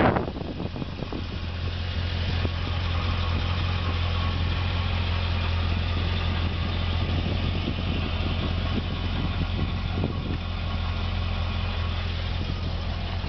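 2011 Cadillac CTS-V coupe's supercharged 6.2-litre V8 idling steadily, a low even hum with no knocking.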